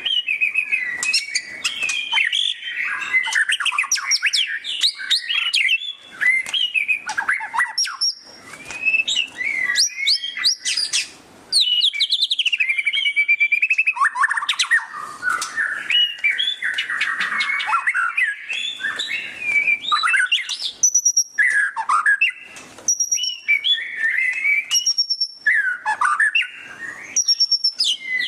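White-rumped shama (murai batu) singing loudly in its rapid twittering 'ngeriwik' style, an unbroken run of fast, varied chattering phrases and trills mixed with repeated high clear whistles, with only brief pauses.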